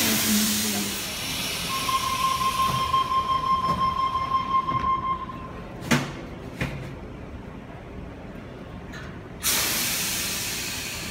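Sydney double-deck electric train standing at a platform: a loud burst of compressed-air hiss, then a steady high electronic warning tone for about three seconds. A sharp knock follows, and near the end another loud air hiss starts suddenly and slowly fades.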